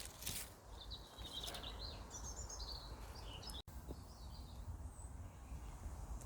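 A small songbird chirping and twittering in short broken phrases from about a second in until near the end, over a steady low outdoor rumble. A few faint clicks come near the start.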